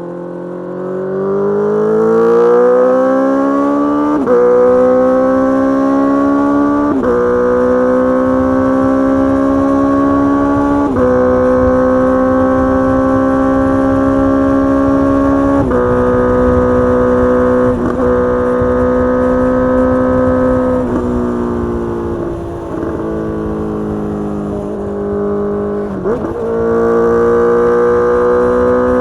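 Inline-four engine of a 2022 Honda CBR650R through a Mivv GP Pro full-system exhaust, revving up hard over the first few seconds and then holding high revs at speed. The pitch steps slightly a few times, drops as the throttle eases about two-thirds of the way in, dips briefly and climbs again near the end.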